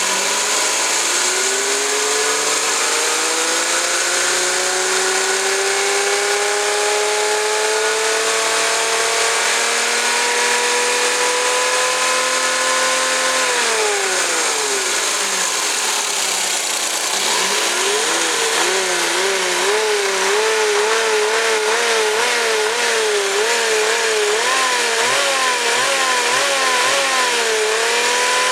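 Suzuki K6A three-cylinder engine revving: the engine speed climbs slowly, drops back sharply about 13 seconds in, then is blipped up and down quickly and repeatedly before holding a steady high rev near the end.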